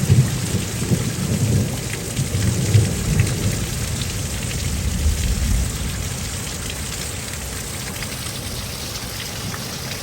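Heavy rain falling steadily with low rolling thunder, the rumble strongest in the first half and easing after about six seconds.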